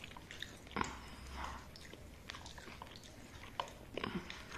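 A person chewing a mouthful of cooked chicken close to the microphone, with irregular small clicks and smacks of the mouth.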